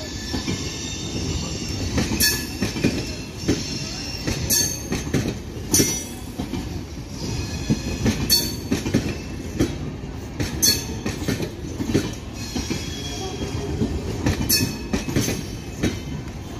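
Passenger train coaches rolling slowly through a station: a steady low rumble, with sharp wheel clacks over rail joints every couple of seconds and a faint high wheel squeal.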